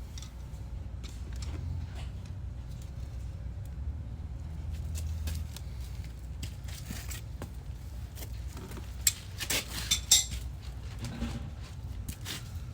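A steady low rumble with a cluster of sharp metallic clinks and clanks about nine to ten seconds in.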